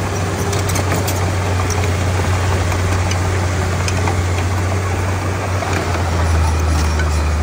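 Komatsu D31P crawler bulldozer's diesel engine running with a steady deep drone that drops lower and grows slightly louder about six seconds in.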